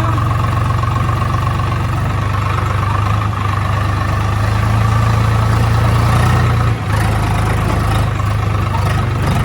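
Tractor engine running steadily, with a brief dip about seven seconds in.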